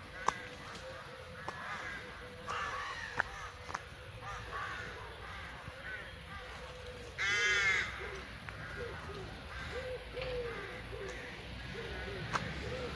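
Birds calling, with one loud harsh call lasting under a second about seven seconds in, and several softer calls around it. A few sharp knocks come at irregular intervals.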